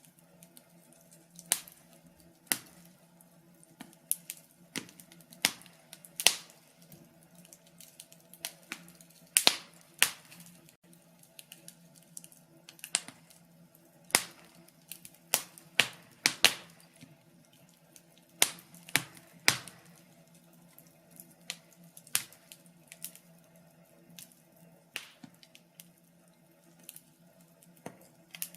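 Wood fire crackling: sharp, irregular pops and snaps, one or two a second and some louder than others, over a faint steady low hum.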